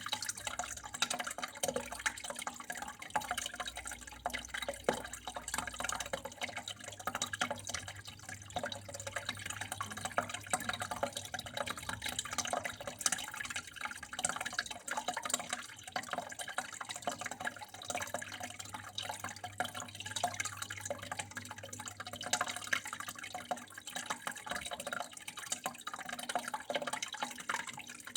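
Water flowing steadily, with continuous trickling and dripping splashes, over a faint low steady hum.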